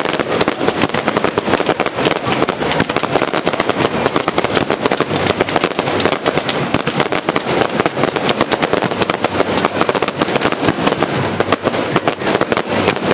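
Fireworks barrage: a dense, unbroken stream of rapid crackling pops and bangs, many per second.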